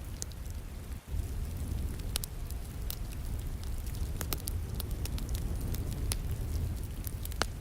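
Wood fire crackling with scattered sharp pops, one louder pop near the end, over a steady rumble and hiss of rain.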